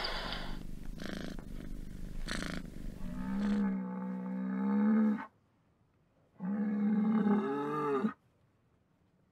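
Highland cow mooing twice, each a long, drawn-out call of about a second and a half with a short silent gap between. Before the first moo, for about three and a half seconds, there is a rough noisy stretch with two brief louder bursts.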